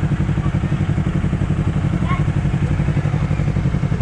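Honda CBR250RR's parallel-twin engine running at steady low revs: an even, regular pulsing with no revving.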